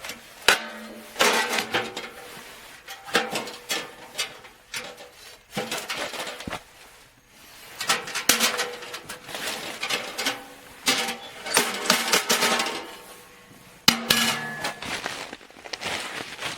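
Metal camping gear being handled: repeated clattering and knocking in uneven clusters, with a slight metallic ring.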